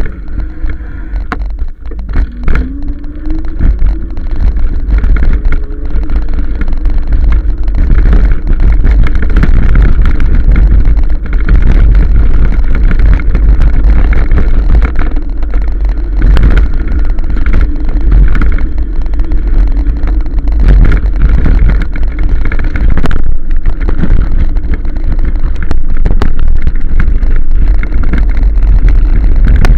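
Riding noise from a 1000-watt e-bike: loud, steady wind rumble on the microphone mixed with road noise, with a short rising whine about two seconds in.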